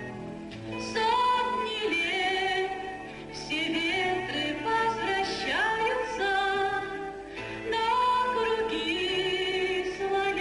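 Song with a female voice singing long notes with vibrato in phrases of a few seconds, over instrumental accompaniment, with one upward swoop of the voice near the middle.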